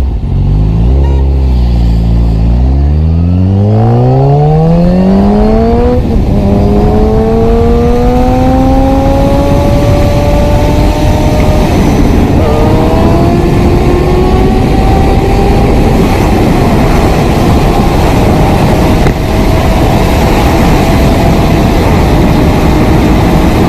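A vehicle's engine accelerating hard from a standing launch, its pitch climbing steeply in first gear, then dropping at each gear change and climbing more slowly in the higher gears.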